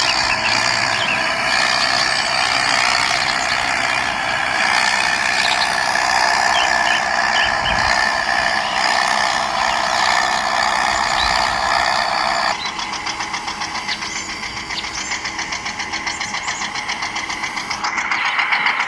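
A small motor running steadily. About two-thirds of the way through it changes abruptly to a quieter, fast, even pulsing motor sound.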